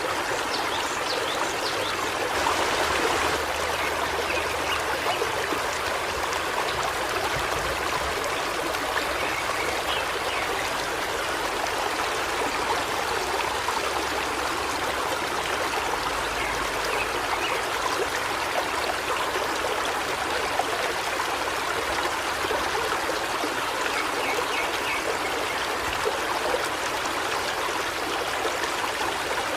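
Steady rushing of a forest stream flowing over rocks. Faint short bird calls come through a few times.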